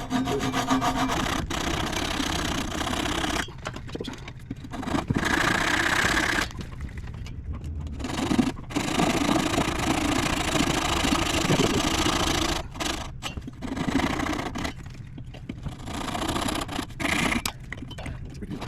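Wood being shaped to fit: repeated stretches of scraping and grinding on the wooden piece, each lasting one to several seconds, with short pauses between them.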